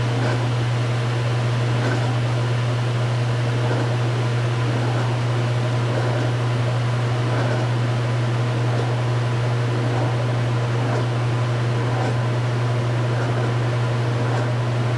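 Speed Queen top-load washing machine running with a steady, unchanging motor hum.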